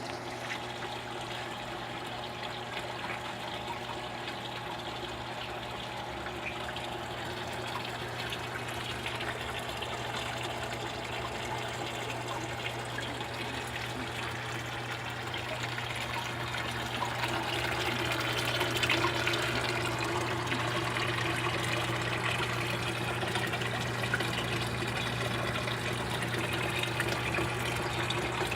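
Aquarium water trickling and splashing steadily over a low, steady hum, getting a little louder about two-thirds of the way through.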